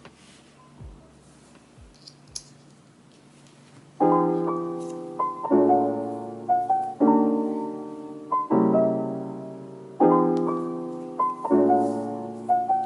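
Faint soft clicks and handling sounds, then about four seconds in a slow background piano piece comes in, with chords struck every second or so and left to ring and fade.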